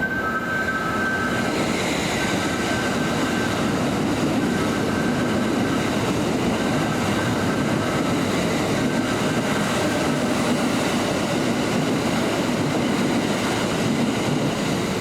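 Kintetsu electric commuter train running along the station platform: a steady loud rumble of wheels on rail and running gear, with two thin high tones in the first second or two.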